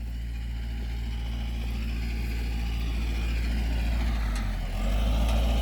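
An engine running steadily with a low drone, which shifts slightly about five seconds in.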